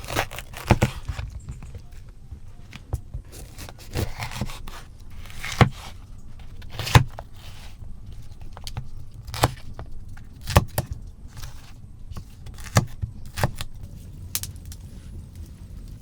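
Irregular sharp knocks and clinks, roughly a dozen, spaced one to two seconds apart, over a steady low rumble.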